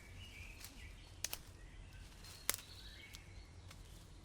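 Birds chirping faintly in woodland over a low steady rumble, with two sharp clicks about a second apart.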